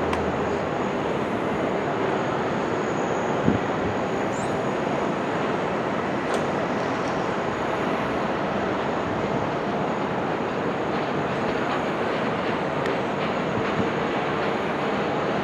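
Jet airliner engines running as a steady, even noise, with one sharp knock about three and a half seconds in.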